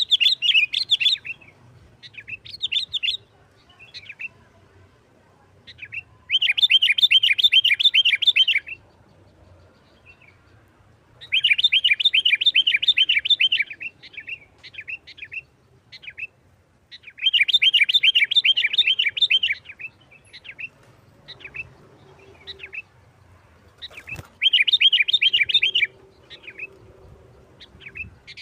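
Sooty-headed bulbul (kutilang) singing in fast, rapid-fire chattering trills, each about two seconds long, with short single notes between them. This is the quick, aggressive 'nggaruda' song that bird keepers use to provoke other bulbuls.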